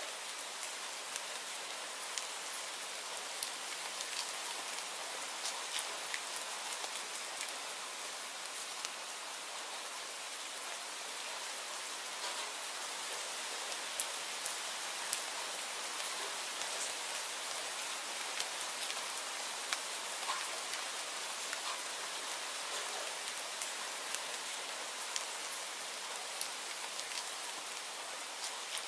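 Steady rainfall: an even hiss of rain with scattered sharp ticks of individual drops, a few louder ones around halfway through.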